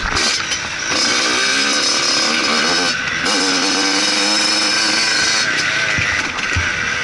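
Motocross motorcycle engine running hard, its revs rising and falling, with a brief drop in the high end about three seconds in.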